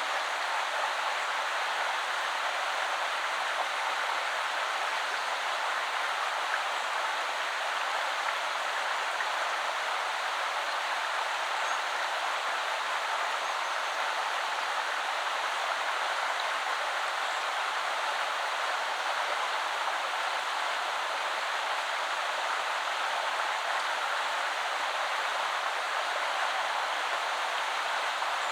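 Woodland river flowing steadily: an even rush of water over stones, without breaks or changes.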